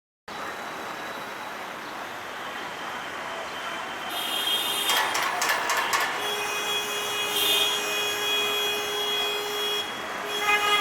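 Busy road traffic noise with several vehicle horns sounding from about four seconds in, one held steady for a few seconds, and a few sharp clicks partway through.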